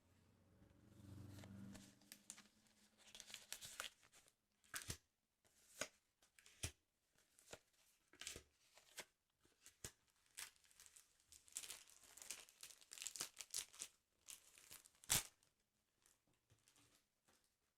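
Paper from a sticker album being torn and crinkled, in a string of short, irregular rips and rustles, with one sharper, louder rip about fifteen seconds in.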